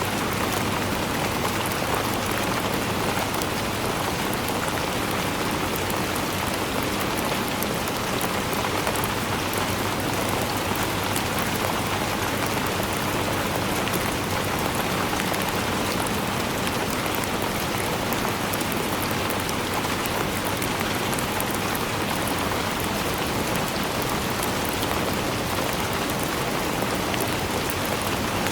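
Steady rainfall: an even, unbroken hiss flecked with the fine patter of many drops.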